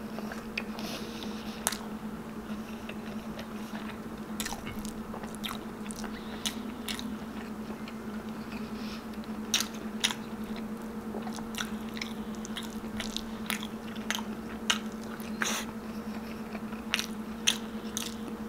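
Close-up mukbang eating sounds of a man chewing balbacua (braised pork hock) and rice eaten by hand, with irregular sharp smacking clicks from his mouth. A steady low hum runs underneath.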